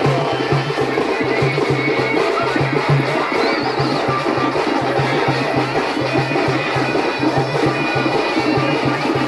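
Music with fast, even drumming, over a dense wash of noise.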